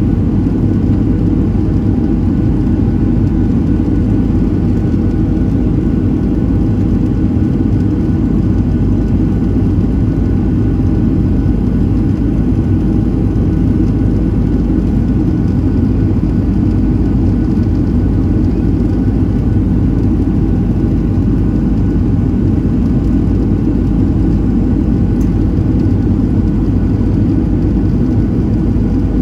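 Steady drone of a Boeing 737-700 in flight heard from inside the passenger cabin: its CFM56-7B turbofan engines and the airflow make a constant low rumble with a few faint steady tones above it.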